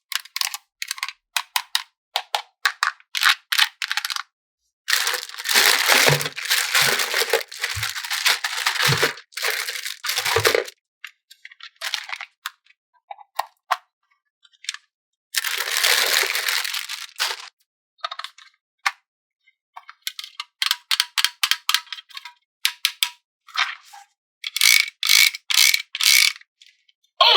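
Hands unboxing plastic toys: many short clicks and clatters of plastic parts, with longer rustling stretches around a quarter and two-thirds of the way through, and a quick run of sharp clicks near the end.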